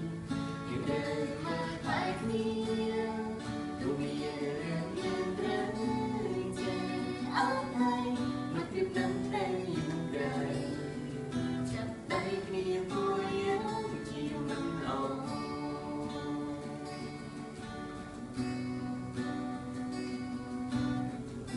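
Acoustic guitar strummed and picked, with a voice carrying a gliding melody in places and no clear words.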